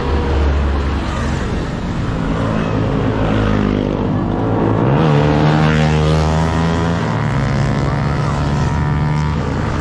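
Motorcycle engine running under way with wind rushing past. About five seconds in, the engine note picks up and rises as the bike accelerates.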